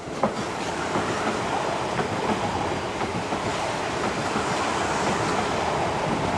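Passenger train running past close by, a steady rumble with the wheels clicking over rail joints about once a second.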